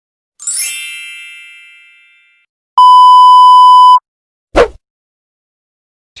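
Three stock sound effects in a row: a bright chime that rings and fades away over about two seconds, then a loud, steady censor bleep lasting about a second, then a quick whoosh that falls in pitch.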